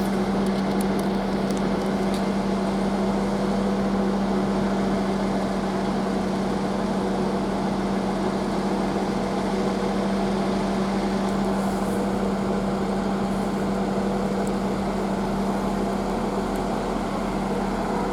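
Steady mechanical hum of a train standing at the platform, one constant low tone under a wash of noise, unchanging throughout.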